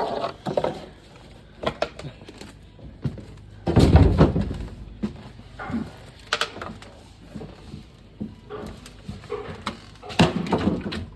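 Wooden knocks and thuds from rotten wall framing being pried at and handled, with a heavy low thump about four seconds in.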